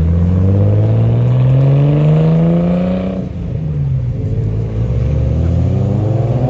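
A performance car's engine accelerating hard as it pulls away, its note rising steadily, dropping about three seconds in at a gear change, then climbing again in the next gear.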